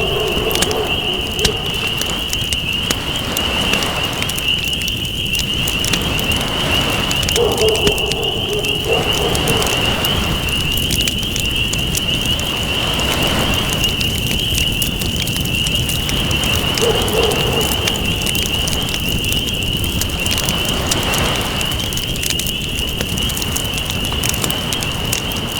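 Crackling campfire over waves washing in and out every few seconds. A steady high trill runs throughout, and a short low tone sounds three times: just before the start, about 8 seconds in and about 17 seconds in.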